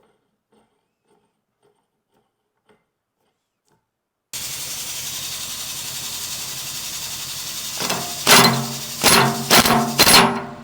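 A 1-inch pneumatic impact wrench hammering in short bursts, about four times in the last few seconds, driving the piston nut tight on the excavator's boom cylinder rod. Before it, a few faint ticks, then about four seconds in a steady running noise with a low hum starts suddenly.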